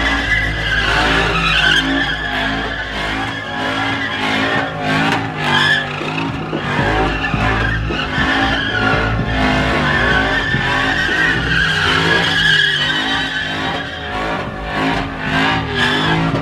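A vehicle doing a burnout: the engine is held at high revs that rise and fall repeatedly while the tyres squeal continuously.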